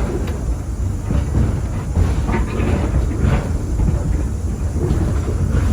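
Passenger train rolling along the track, heard from aboard a coach: a steady low rumble of the wheels with some rattling and clatter from the cars, a few sharper clacks about two to three seconds in.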